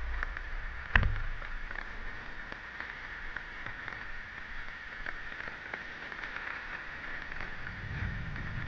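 Rain falling steadily, with many small irregular drip taps and one louder knock about a second in.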